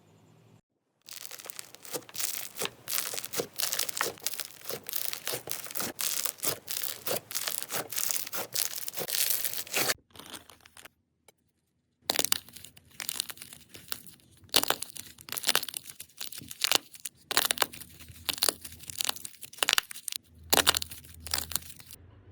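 Slime being squished and worked, making dense runs of crackling, crunchy clicks. It falls silent for about two seconds around the middle, then the crackling starts again.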